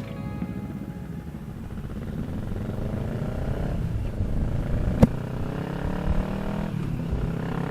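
Kawasaki Z650 parallel-twin motorcycle engine accelerating under way, its pitch rising, dropping at an upshift about four seconds in, then rising again until another shift near the end, with wind rumble on the microphone. A single sharp click about five seconds in.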